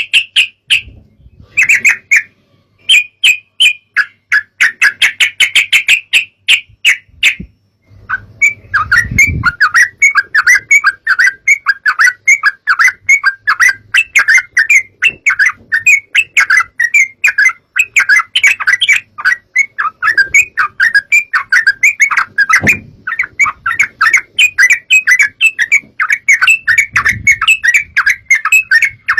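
Yellow-vented bulbul calls as played on a lure track: fast, repeated chattering notes that break off a few times in the first seconds, then run on without a pause. A few dull low thuds come through the chatter.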